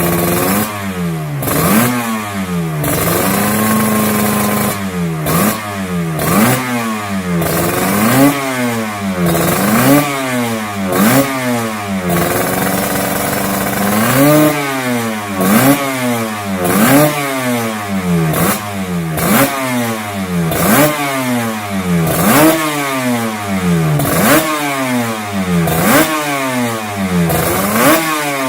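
Two-stroke motorcycle engine revved in quick throttle blips, about one a second, each rising and falling in pitch. It holds a steady, higher speed for a couple of seconds about four seconds in and again near the middle.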